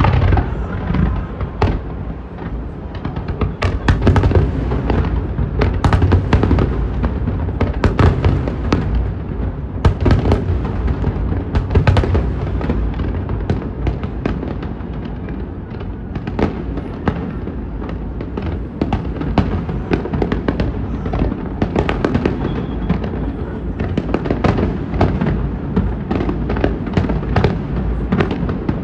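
Fireworks display: a dense, continuous barrage of firework bursts and crackling, with the loudest booms coming about every two seconds in the first half.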